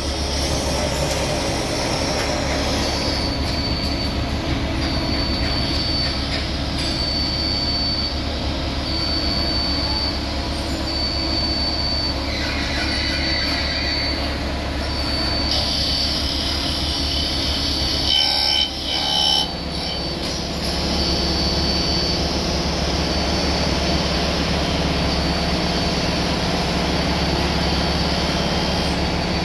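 Workshop machinery running with a steady low hum and a high-pitched squeal that comes and goes about once a second. It gets louder and harsher for a few seconds about two-thirds of the way through.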